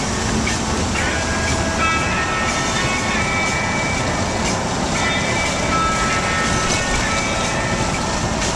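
Car driving through rain and standing water on a flooded road: a steady rushing noise of tyres and water.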